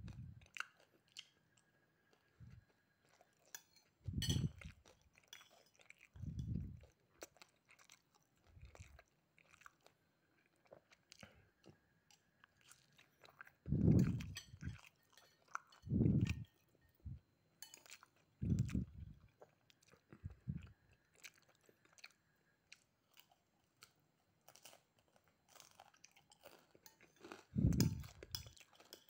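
A person chewing and crunching mouthfuls of fried rice with crispy rempeyek crackers. The chewing comes in louder bouts of about half a second every few seconds, with small sharp crackles in between.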